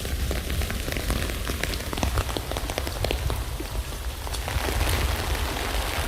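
Rain falling on a tent: a steady patter of many separate drops over a low rumble, the hiss turning a little brighter about four and a half seconds in.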